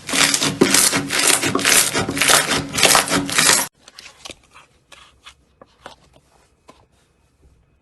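Slime being squeezed and worked by hand, a dense crackling crunch in repeated pulses that cuts off abruptly about halfway through; after that only faint scattered clicks and small pops.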